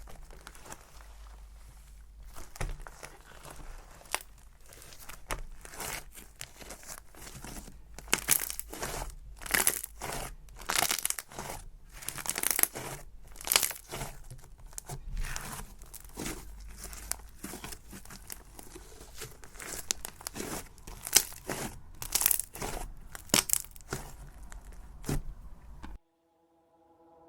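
Cloud cream slime being stretched and squished by hand, giving a dense run of irregular crackling, tearing pops. It cuts off abruptly near the end, and soft chiming music begins.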